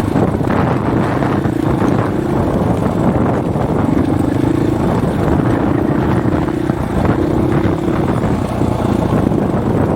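Dirt bike engine running while riding, its note coming and going in surges, under heavy wind buffeting on the microphone.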